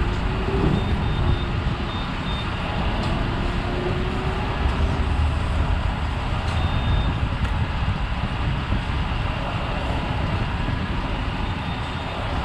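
Steady rumble of engines and traffic, with a few short runs of high electronic beeps from a fuel pump being started.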